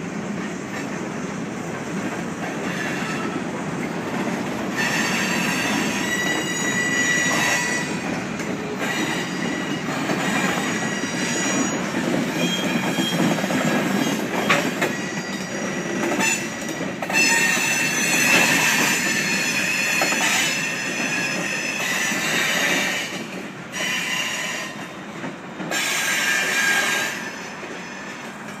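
Central Oregon and Pacific freight train of boxcars and covered hoppers rolling past with a steady low rumble. Its wheels squeal shrilly again and again, the squeals starting about five seconds in and coming and going until near the end.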